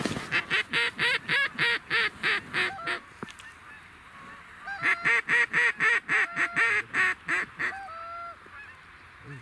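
Hunters' goose calls blown in Canada-goose-style honks: two rapid, evenly paced series of about four honks a second, each a few seconds long with a short pause between, then a couple of single drawn-out notes near the end.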